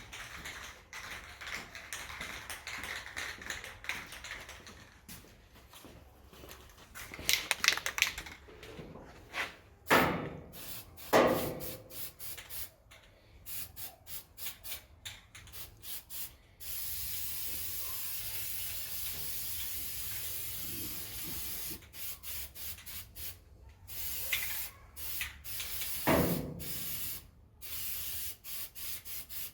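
An aerosol spray can spraying in short bursts, then in one long burst of several seconds, with a few loud knocks and clatters of handling in between.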